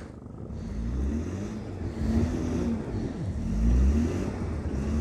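Car engine revving up and down several times as the car drives through deep snow, over a low rumble.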